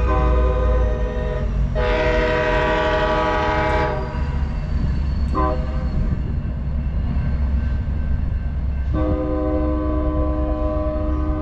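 Locomotive air horn sounding a long blast, a brief short blast, then another long blast of about three seconds, over the steady low rumble of a train. Together with the long blast that runs in from before, it is the long-long-short-long grade-crossing signal.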